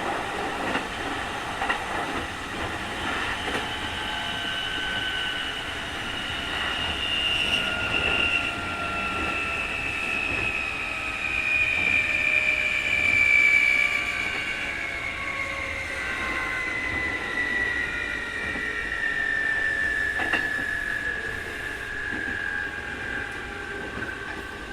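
Keikyu 2000 series field-chopper electric train heard from inside the car: a strong high whine, the 'jet sound' of this abnormal-noise car, falling steadily in pitch as the train slows, over running rumble with a few wheel clicks on the rail joints.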